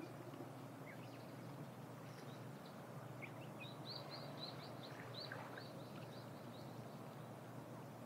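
Small birds chirping faintly: scattered short calls, then a run of quick high notes about three a second through the middle, over a steady low outdoor background hum.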